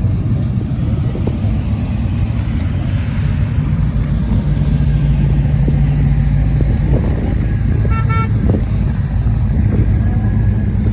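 Motor vehicles running with a steady low rumble, and a short car horn toot about eight seconds in.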